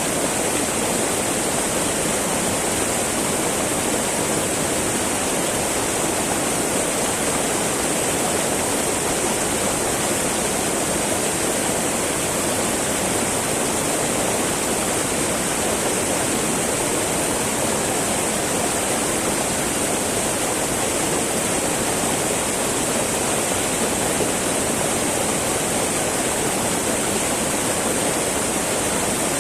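Small mountain river babbling and rushing over rocks in a steady, unchanging flow.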